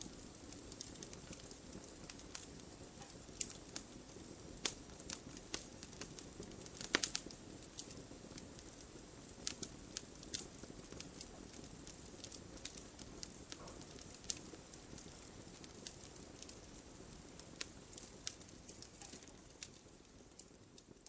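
Wood fire burning with a steady low hiss and frequent sharp crackles and pops, the loudest about seven seconds in; the sound fades down near the end.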